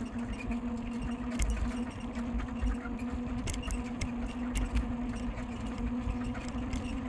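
Bicycle being ridden: a steady mechanical whir from the moving bike, with wind rumble on the microphone and a few sharp clicks or rattles.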